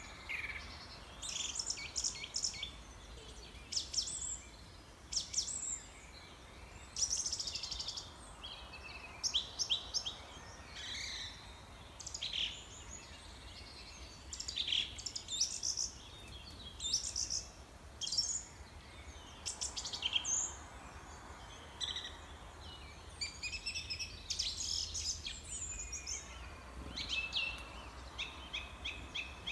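Small birds chirping and singing, a run of short chirps and trills every second or so over a faint steady background hum.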